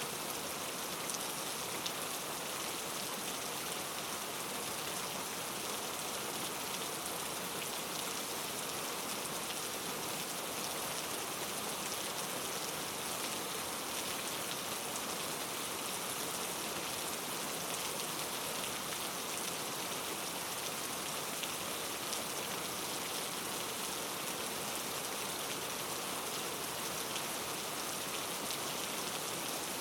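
Steady rain falling, an even hiss of drops striking a surface with fine scattered patters, unchanging throughout.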